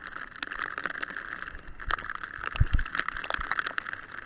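Mountain bike riding over a rough trail: a steady high buzz with scattered clicks and rattles, and a couple of heavier low knocks about two and a half seconds in.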